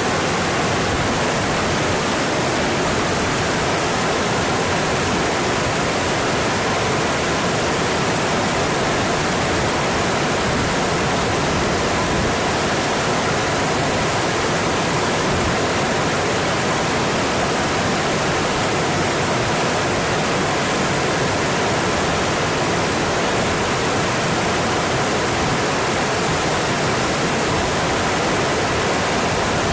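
Mountain stream rushing over its rocky bed: a steady, even rush of water with no breaks.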